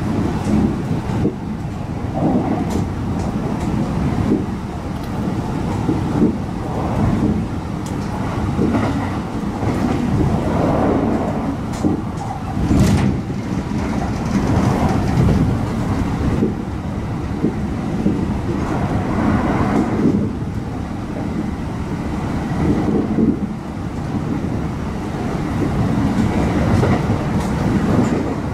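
Electric commuter train on the Hanshin line running at speed, heard from inside the passenger car: a steady rumble of wheels on the rails with scattered sharp clicks.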